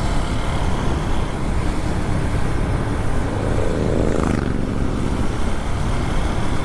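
Motorcycle ride noise: wind rushing over the helmet-mounted microphone with the bike's engine running underneath, steady and heavy in the low end.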